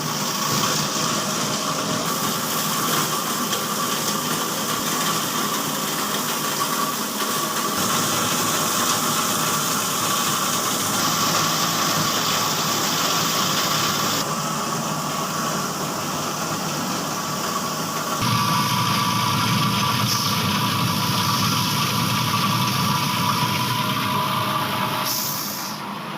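Plastic crusher machine running steadily, a continuous mechanical hum with a whine, its sound shifting abruptly a few times.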